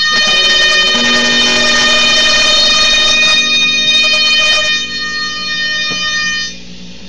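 Colour-changing chameleon novelty radio giving out its electronic interference noise, amplified through a guitar amp: a loud, steady buzzing drone of several held tones. It drops in level about two-thirds of the way through and drops further near the end. The owner suspects the noise comes from the radio's colour-changing lights, since no stations come in.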